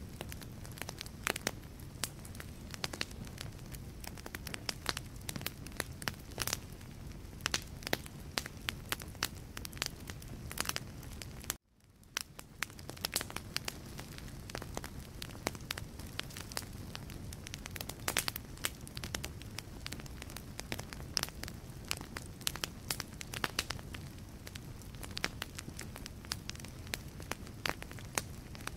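Wood fire burning in a fireplace, crackling with many irregular sharp pops over a steady low rumble of the flames. About eleven and a half seconds in, the sound cuts out for an instant and fades back in.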